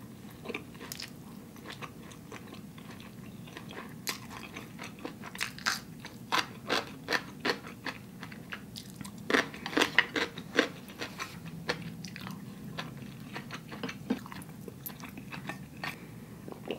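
Chewing and mouth sounds from eating spicy instant noodles: a run of short wet clicks and lip smacks, busiest in the middle, with a sip through a straw near the end.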